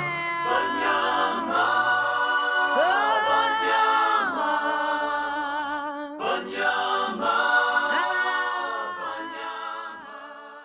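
A cappella vocal music: several voices singing long, wavering held notes, fading out near the end.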